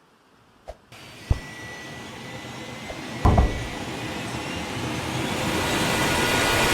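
A rushing mechanical whine that starts about a second in and grows steadily louder, with a few sharp knocks in the first few seconds.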